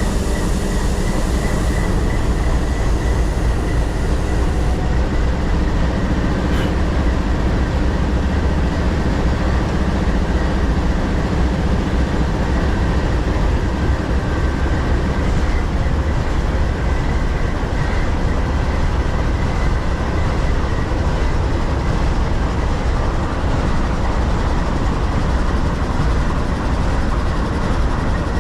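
Train rolling past close by: a loud, steady rumble that holds unchanged, with faint steady tones above it.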